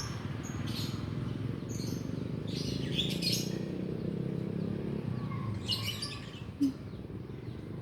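A small bird chirping: short, high chirps in scattered clusters, with a pause in the middle and another cluster near the end, over a steady low hum.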